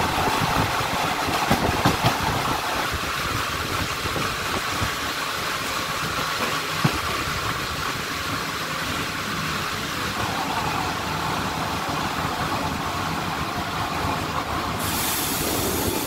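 Old non-air-conditioned passenger carriage of a diesel-hauled train rolling on rails into a station, heard through its open window: a steady running rumble and rattle with a few wheel clicks. A steady hiss comes in near the end.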